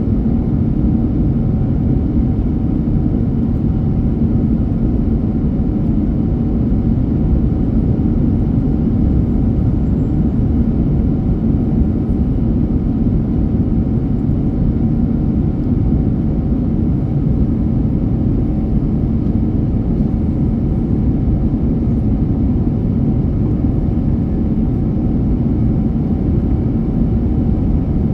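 Steady drone of an airliner's jet engines and rushing air, heard inside the passenger cabin.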